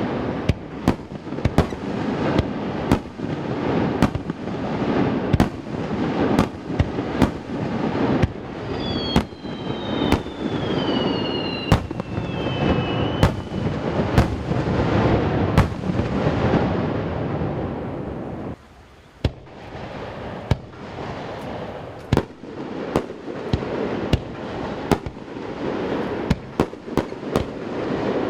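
Fireworks display: a rapid string of shell bursts over a continuous crackling rumble, the bangs echoing off surrounding mountains. A few whistles slide down in pitch about a third of the way in, and there is a brief lull about two-thirds through.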